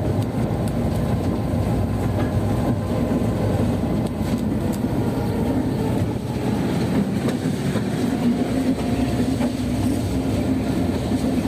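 Diesel train running, heard from inside the car: a steady low rumble with a few faint clicks.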